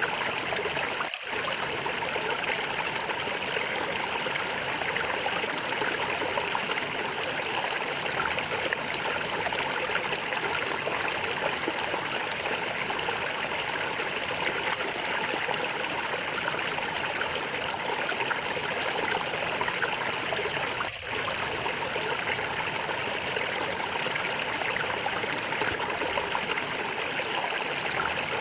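Stream water flowing and gurgling steadily, with two very brief dips in level, about a second in and about 21 seconds in.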